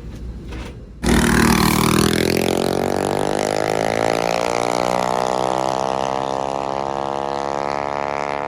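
Mini bike engine launched at full throttle about a second in, then held wide open with its pitch rising slowly as it pulls down the drag strip. The sound cuts off abruptly at the end.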